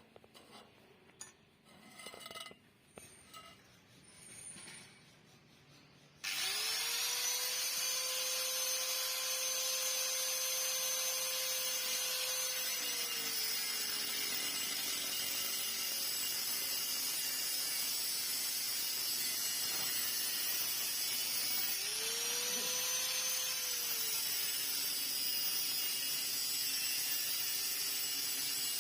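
A power tool cutting or boring into a motorcycle exhaust muffler. After a few faint clicks it starts up suddenly about six seconds in and runs loud and steady with a high whine, the whine sagging slightly in pitch under load about halfway and rising and falling again a little later.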